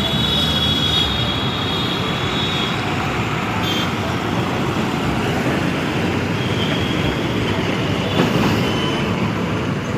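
Steady road traffic noise, the mixed rumble of passing vehicles, with a brief louder moment about eight seconds in.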